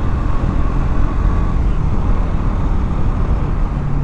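KTM Duke motorcycle's single-cylinder engine running steadily while riding, with wind rushing over the rider's mic.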